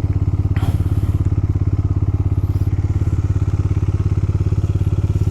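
Motorcycle engine running steadily at an even speed, with a brief knock or clatter about half a second in.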